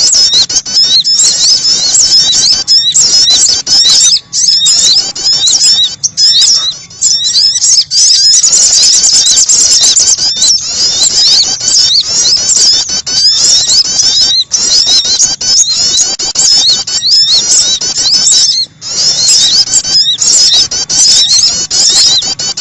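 Bird-call lure recording of small songbirds, with dense, rapid, high-pitched chirps and twittering trills overlapping almost without pause. It is broken only by a few brief gaps.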